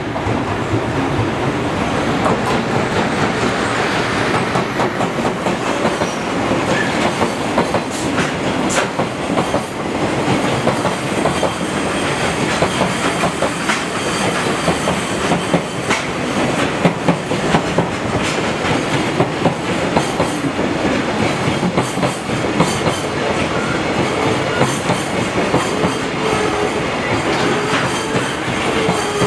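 Japanese container freight train rolling past, its wagons' wheels clacking over the rail joints in a steady, loud run of clicks.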